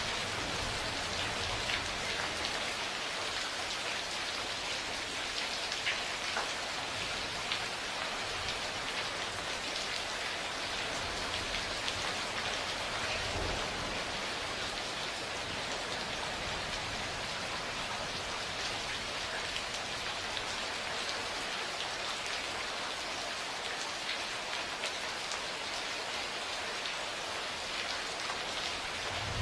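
Steady rain falling on a hard surface, with many individual drops ticking sharply. A faint low rumble comes in near the start and again about halfway through.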